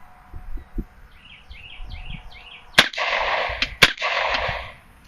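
Two gunshots about a second apart from a 9mm AR-platform carbine with a 10.5 inch upper, firing 115 grain full metal jacket rounds, each shot followed by a noisy ringing tail.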